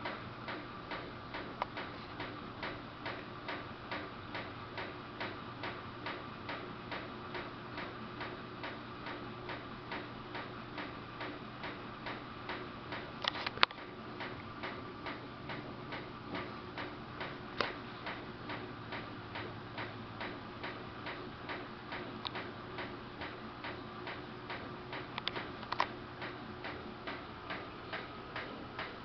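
Samsung VRT WF448 front-loading washing machine running, with a steady hum and an even ticking about twice a second, and a few louder clicks.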